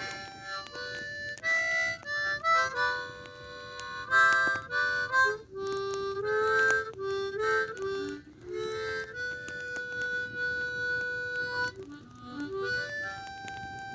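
Blues harp (ten-hole diatonic harmonica) playing a slow melody of mostly single notes, with a long held note in the middle and a couple of notes dipping down in pitch.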